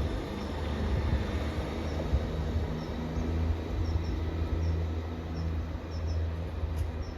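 Diesel train engine running with a steady low rumble, easing slowly as a Class 158 diesel multiple unit pulls away from the platform. Faint short high chirps sound now and then over it.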